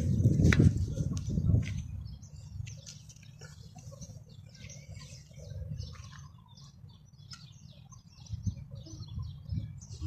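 Many small birds chirping in quick, overlapping calls. A low rumble is loudest in the first two seconds.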